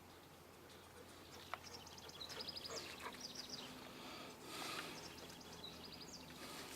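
Faint bird chirping: several quick runs of short, high repeated notes over a few seconds, with a brief rustle in the middle.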